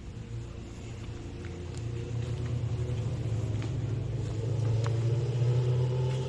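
A motor vehicle's engine running with a steady low hum that grows louder toward the end.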